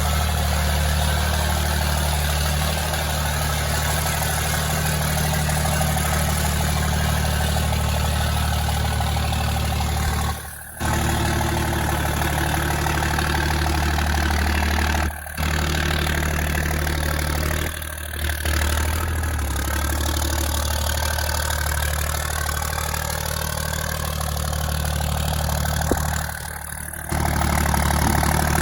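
Diesel truck engine idling steadily, broken by four brief dropouts.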